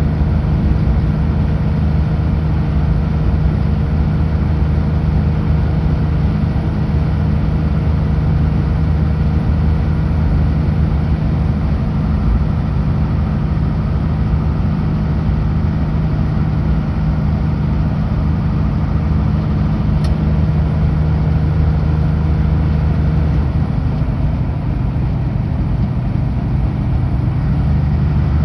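Kenworth W900L semi truck's diesel engine running steadily under way, a continuous low drone over road noise. The engine note dips briefly about three-quarters of the way through.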